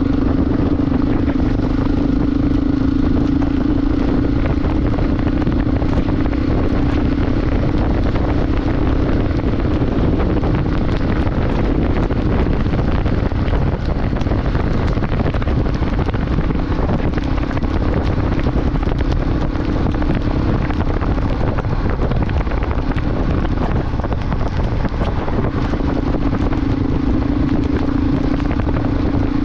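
Motorcycle riding at a steady speed: the engine's steady hum under heavy wind rush on the microphone. The engine hum drops back through the middle and comes up strongly again near the end.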